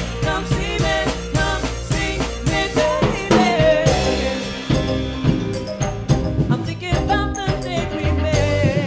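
Band music: a drum kit keeps the beat with snare hits under a wavering melody line that sounds like singing.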